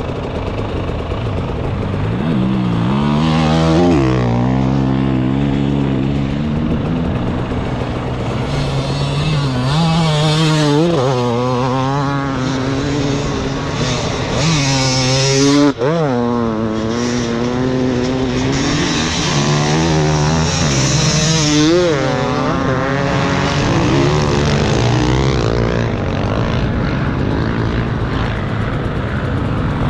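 Enduro motorcycle engine revving up and down as it is ridden off-road, the pitch rising and falling every few seconds, with a sharp momentary break in the sound about halfway through.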